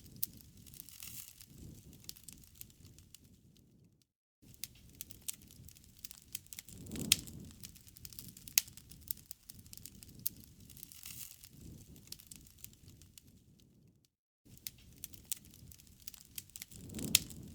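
Campfire crackling: scattered sharp pops and snaps over a low rustling hiss. The sound cuts out completely for a moment twice, about four seconds in and again about fourteen seconds in.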